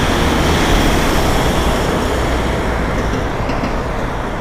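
Loud, steady rushing and rumbling of wind and road noise while cycling in wind and rain.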